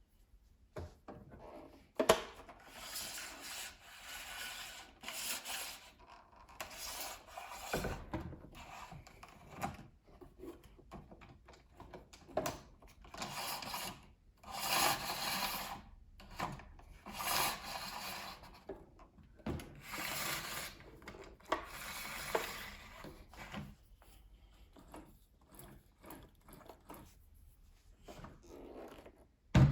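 Rubbing and scraping strokes of hands working on a Bernina 1230 sewing machine, in irregular passes of about a second each, with a click about two seconds in and a sharp knock at the very end.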